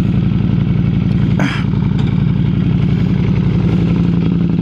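Motorcycle engine idling steadily and evenly, close by, with a brief rustle about a second and a half in.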